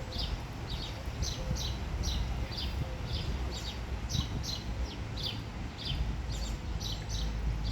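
A small bird chirping over and over, about two to three short, high, falling chirps a second, over a steady low rumble.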